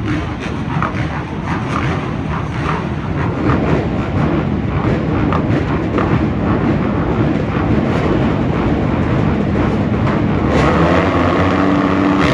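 Motocross race engines running on the track, revving up and down. One engine comes in louder and steadier near the end.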